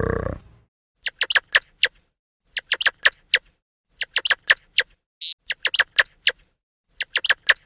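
Short, sharp, high chirps in quick runs of four or five, each run coming about every second and a half: a small animal or bird calling.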